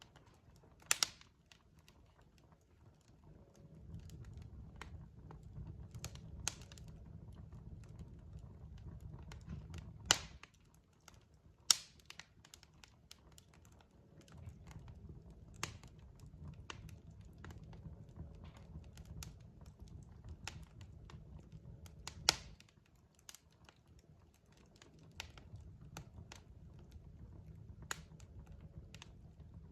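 Burning logs in a fireplace crackling, with scattered sharp pops, the loudest about a second in, near 10 and 12 seconds, and about 22 seconds in, over a low rumble of the fire that drops out twice and returns.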